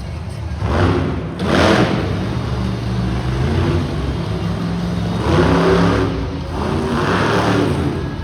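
Monster truck engine running and revving hard in four surges, with a steady low engine tone between them.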